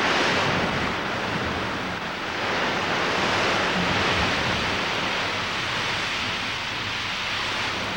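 Wind and surf on an exposed coast: a steady rushing noise that swells a little about three seconds in.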